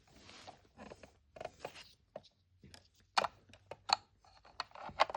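Small plastic miniatures being handled and set into a toy fridge: a soft rustle, then a series of sharp light clicks and taps of plastic on plastic.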